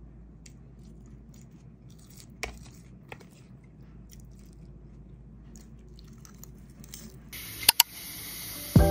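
Soft chewing and crunching of fresh spinach leaves, with a few light clicks of a metal fork against the dish. Near the end come two sharp, louder clicks.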